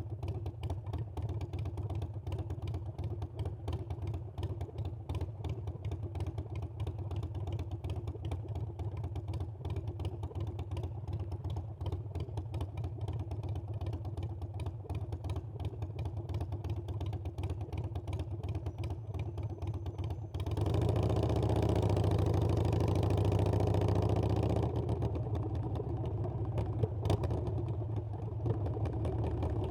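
Harley-Davidson Iron 883's air-cooled 883 cc V-twin running at low, steady revs. About two-thirds of the way through it opens up, louder for about four seconds with the pitch rising and falling and wind rushing over the microphone, then eases back to a steadier run.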